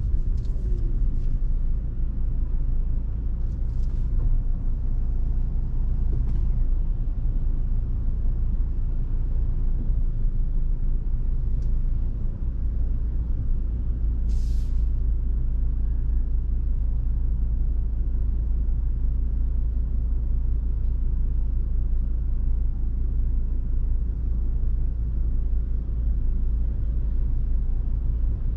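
Volvo V70 2.5T driving at a steady pace: its turbocharged five-cylinder engine and road noise make a constant low rumble. A brief hiss comes about halfway through.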